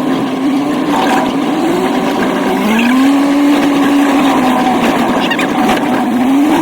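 Old truck's engine running while driving, its revs climbing about two and a half seconds in, holding, easing off, then climbing again near the end.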